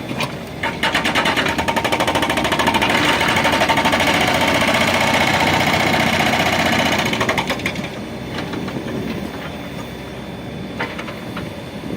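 Diesel engine of an earth-moving machine running hard with a fast, even pulsing beat. It picks up about a second in and eases back after about seven seconds.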